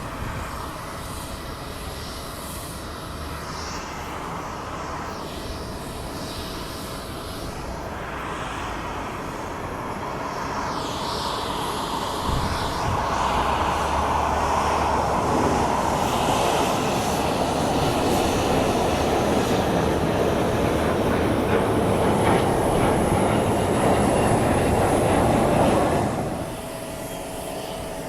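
Jet airliner engines: a steady rushing noise that grows louder over several seconds, holds strong, then drops away abruptly near the end.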